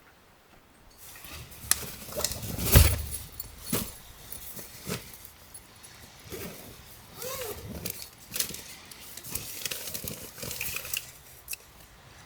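Small hard objects being handled: irregular clinks, clicks and knocks, with the loudest thump a little under three seconds in.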